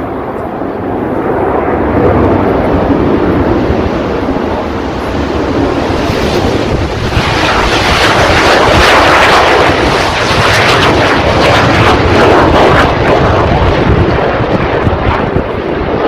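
Aircraft flying past, its engine noise swelling to its loudest from about seven seconds in and staying loud, with wind rumbling on the microphone.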